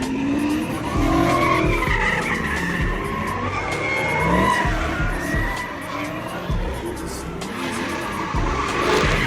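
Car tyres squealing and skidding on pavement, with engines revving, over rap music with a heavy bass beat.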